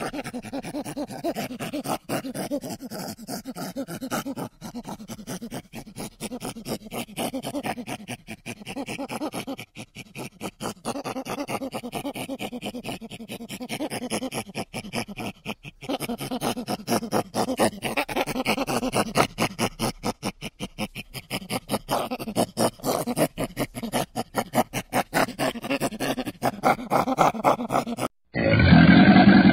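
Chimpanzee vocalizing in a long run of rapid, repeated grunts. Near the end it breaks off, and a louder, low growl from a crocodile begins.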